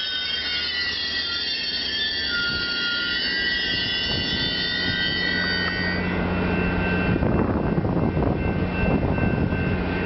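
Caltrain commuter train passing close by, its steel wheels squealing in several high, steady tones. About six seconds in the squeal fades, and the rumble of the train running past grows louder toward the end.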